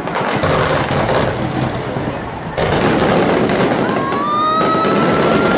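Fireworks crackling and popping in a dense, continuous stream, getting suddenly louder about two and a half seconds in. From about four seconds in a high whistle rises slowly in pitch over the crackle.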